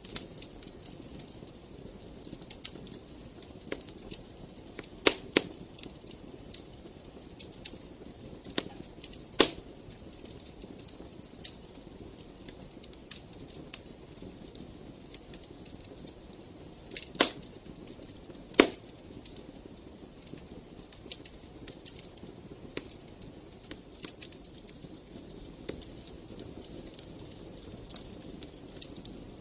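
Wood fire crackling: frequent small snaps over a low, steady rush of flame, with a few louder pops scattered through.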